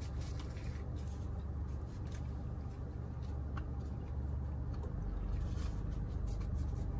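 A man biting into a cheeseburger and chewing it, with faint wet mouth sounds and small clicks, over a steady low hum inside a car cabin.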